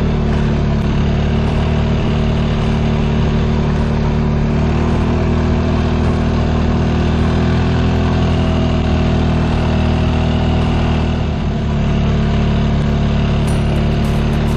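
Engine running steadily at a constant speed, with a brief dip in level about eleven seconds in.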